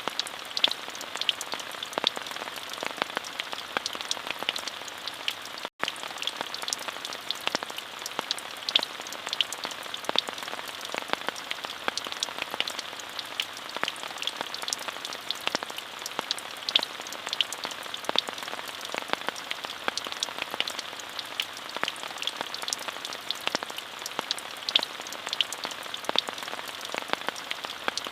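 Steady rain: an even hiss full of many sharp, close individual drop impacts, with a momentary dropout about six seconds in.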